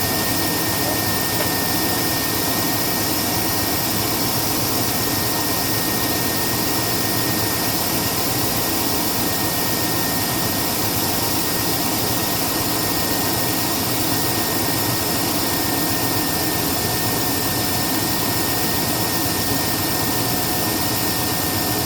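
Chevrolet 6.0L LQ4 V8 engine running steadily, with a thin high whine held throughout.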